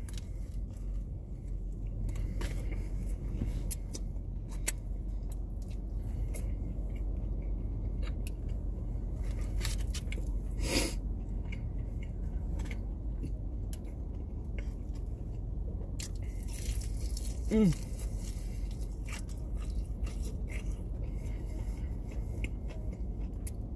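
Close-up eating sounds: biting and chewing a biscuit and crispy fried chicken tenders, with small crunches and clicks, over a steady low hum in a car's cabin. One brief falling voice sound, like an 'mm', about two-thirds of the way in.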